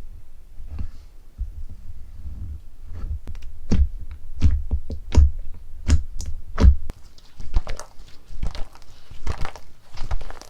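Hand-worked slime being pressed and poked: a run of sharp, irregular sticky pops and clicks over dull handling thumps, turning into a denser crackling near the end.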